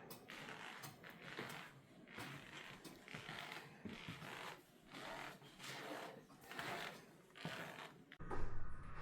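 Faint, slow, rhythmic mechanical swishing and creaking, about one stroke a second, from a running stationary engine. Near the end it gives way abruptly to a louder, low hum.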